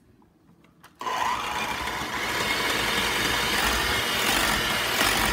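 Black+Decker electric hand mixer switching on with a click about a second in, then running steadily as its beaters whip heavy cream in a glass bowl.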